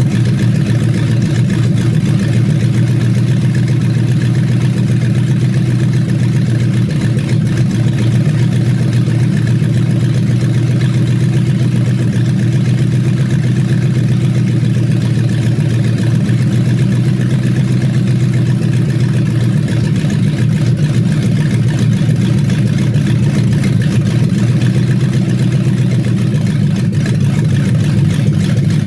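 Toyota 1UZ-FE 4.0-litre V8 idling steadily at a constant speed, without revs.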